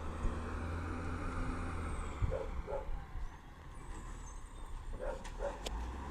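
Peterbilt 320 side-loader garbage truck's engine running with a steady low rumble. A sharp knock comes about two seconds in, and a few short, sharp pitched sounds come in pairs just after it and again about five seconds in.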